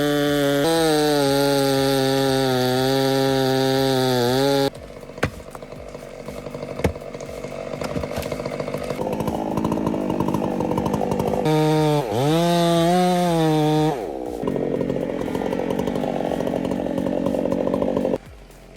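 Chainsaw running at full throttle at a steady pitch, stopping abruptly after about four and a half seconds. It is followed by a rougher, quieter running sound with a couple of knocks, a brief rev that dips and climbs again about twelve seconds in, and more running that drops away near the end.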